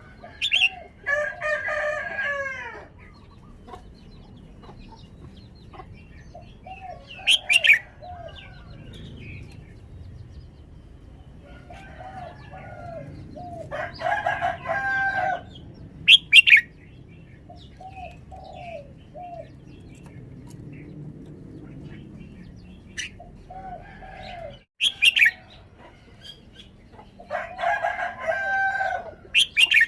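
Red-whiskered bulbul singing: short, sharp whistled notes and brief warbled phrases repeated every few seconds. Three longer calls of about two seconds each, rich in overtones, come near the start, in the middle and near the end.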